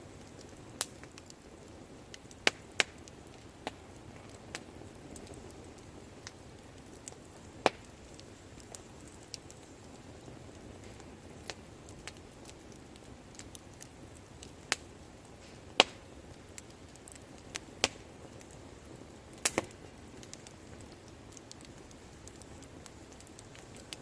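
Wood bonfire crackling: sharp pops and snaps at irregular intervals, a second or several apart, over a low steady hiss of burning.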